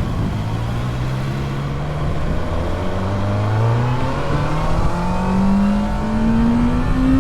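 Kawasaki ZX-6R inline-four engine accelerating under load, its pitch climbing steadily as the revs rise, with wind rush over the microphone.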